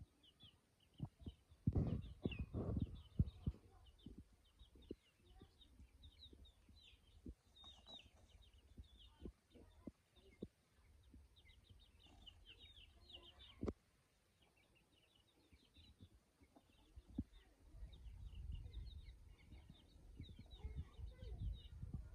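Faint, rapid high chirping of small birds throughout, with scattered clicks. Low rumbling thumps come about two seconds in and again near the end.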